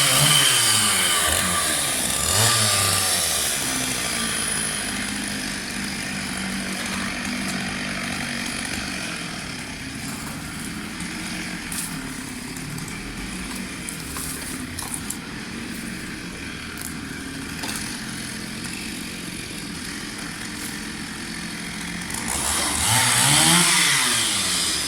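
Chainsaw engine revving and dropping back, revved briefly again about two seconds in, then idling steadily for most of the time, with a few sharp clicks midway. Near the end it is revved up and back down once more.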